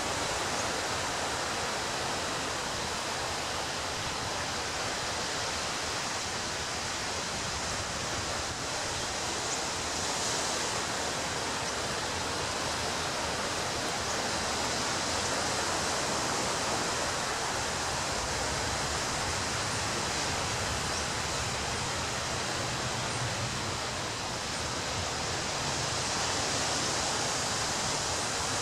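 Ocean waves breaking and washing up a beach: a continuous hiss of surf that swells slightly about halfway through and again near the end.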